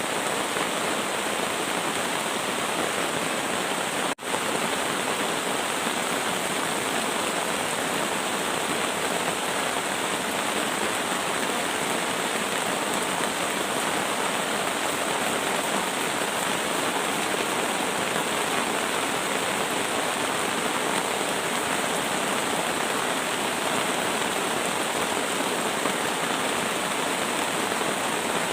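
Heavy rain falling in a steady downpour, with a momentary dropout about four seconds in.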